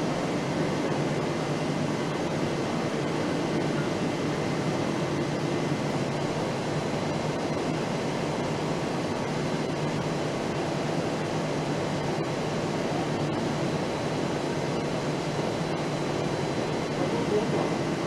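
Steady machinery and ventilation noise of a motorcycle assembly hall: an even rushing hum with faint steady high tones, unchanging throughout.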